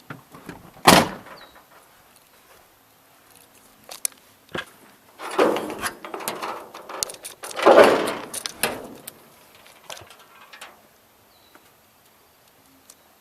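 Handling noises: a sharp knock about a second in, scattered clicks, and two longer bursts of rubbing and clattering around the middle.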